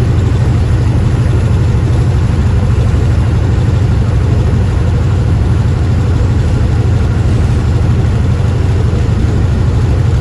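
Steady low drone of a semi truck's diesel engine and road noise heard inside the cab while cruising on the freeway.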